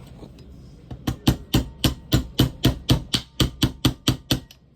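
A hammer tapping roll pins into the trigger valve of a pneumatic siding nailer: a quick, even run of sharp taps, about four a second, starting about a second in and stopping suddenly after some three and a half seconds.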